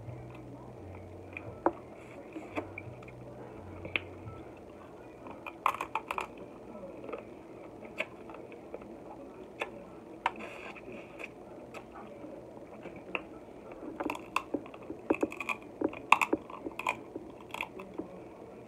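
Close-up mouth sounds of eating Dungeness crab leg meat: chewing and lip smacking with scattered sharp clicks, busiest in the middle and again near the end.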